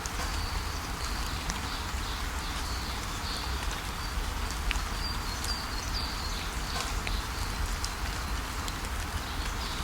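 Steady rain falling, with scattered sharp drip ticks, while a bird gives short, high chirps again and again. A low rumble runs underneath.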